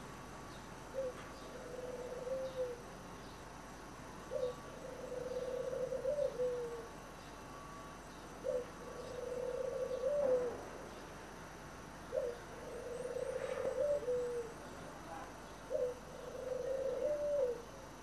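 A bird calling in a low, repeated phrase, five times: a short note followed by a long held note that drops at the end.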